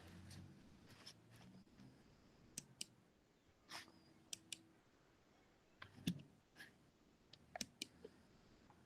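Near silence broken by faint, scattered sharp clicks, a dozen or so at uneven intervals, mostly in the second half.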